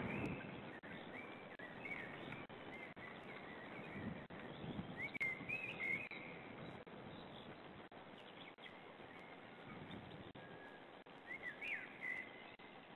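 Birds chirping in short, wavering phrases over a steady hiss, loudest about five seconds in and again near the end, with a few low dull bumps in the first half.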